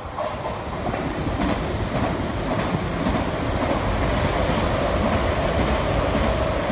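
Renfe electric passenger train running past on the near track: a steady rush of wheels on rail that grows louder over the first second or so, with a light clatter over rail joints and a steady whine in the second half.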